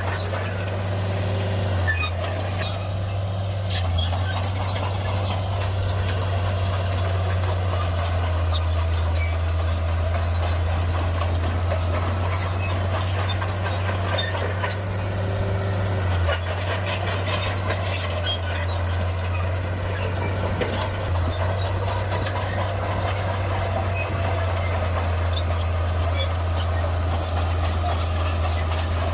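Heavy diesel engine of earth-moving machinery running steadily, with a few scattered clicks and clanks.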